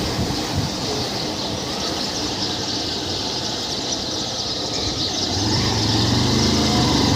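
Honda Unicorn motorcycle's single-cylinder engine running in gear on a test ride, with wind rush on the microphone and a steady engine hum that grows stronger about five seconds in. It runs smooth, without the gear noise that a worn bearing inside the engine had caused before it was replaced.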